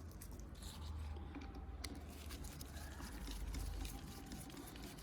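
Faint handling noise: scattered light clicks and rustles of small parts being worked by hand, over a low steady hum.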